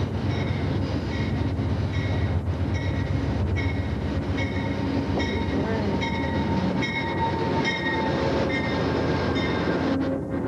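A train coming into a station and slowing, with a steady low rumble and short high-pitched squeals repeating about twice a second.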